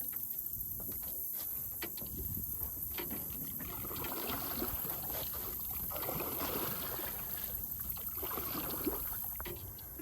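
Jon boat under way across the water, with a steady low motor rumble and water rushing past the hull, the rush growing louder in the middle seconds.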